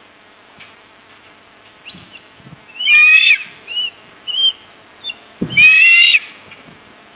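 A bird calling: two loud, harsh calls about two and a half seconds apart, each about half a second long, with a few short chirps between them. A low thump comes with the start of the second call, over a faint steady hiss.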